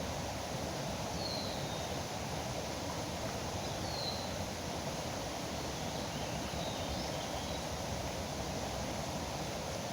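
Steady rush of flowing river water, with three short, high bird chirps that fall in pitch, about a second, four seconds and seven seconds in.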